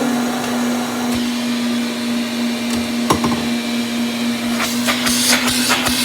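Old Hoover vacuum cleaner running with a steady motor hum, with a single click about three seconds in and loud, uneven rattling and crackling near the end.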